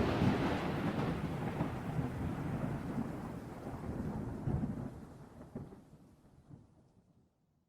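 Thunder: a loud crack that rolls on as a crackling rumble with a rain-like hiss, slowly fading out over about seven seconds.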